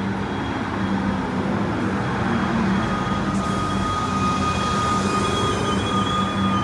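Melbourne suburban electric train running, a steady rumble with a constant low hum and a thin whine that comes up about halfway through.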